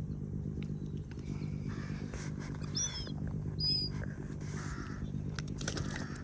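House sparrows giving a few short chirps over a steady low hum.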